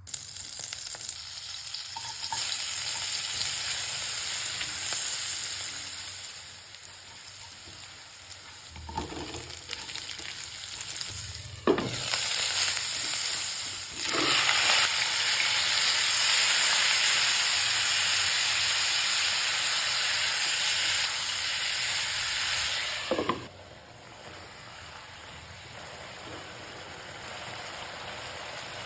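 Food frying in hot oil in a pan, a steady sizzle that grows louder about halfway through and drops back near the end, with a few short knocks along the way.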